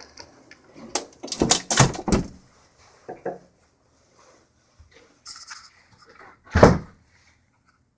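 A quick run of knocks and clicks, then, after a few scattered smaller clicks, one loud heavy thud.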